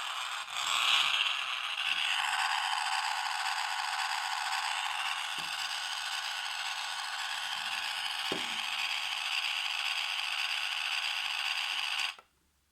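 Remote-control toy car's small electric motor and plastic gearbox whirring steadily, cutting off suddenly near the end.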